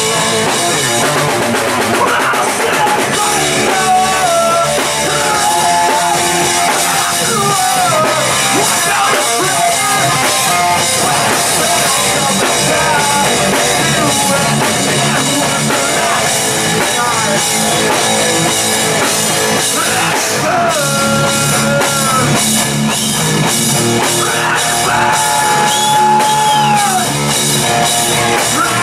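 A rock band playing live: drum kit, guitars and a singer's voice carrying the melody, loud and steady throughout.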